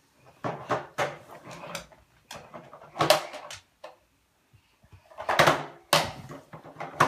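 Pet dogs making short noisy sounds in several bursts, with a pause of about a second partway through.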